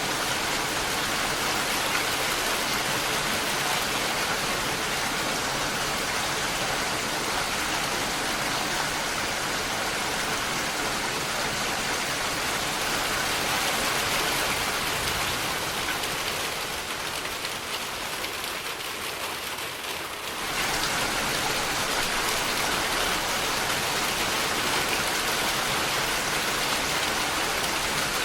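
Steady rainfall, a dense even patter of drops on surfaces. It softens for a few seconds past the middle, then comes back suddenly at full strength.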